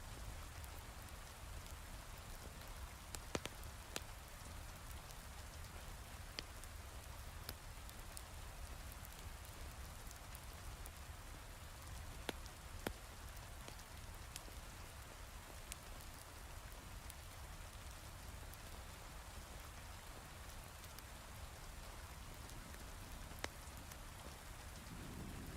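Steady heavy rain, with a few sharp crackles from a log fire scattered through it. A low rumble sets in near the end.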